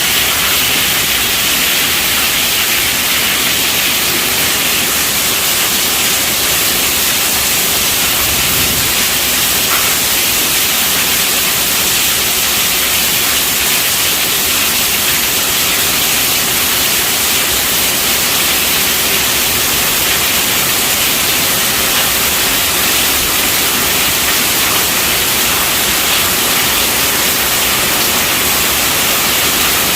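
Steady rainfall: an even, unbroken hiss of rain with no gusts or breaks.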